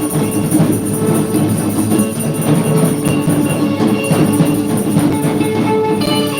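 Church worship band playing, with drums and sustained held notes.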